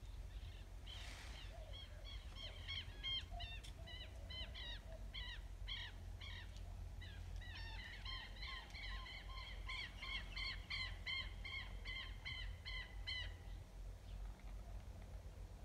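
A bird calling faintly in a long run of short, clipped notes, about three a second, starting about two seconds in and stopping a couple of seconds before the end.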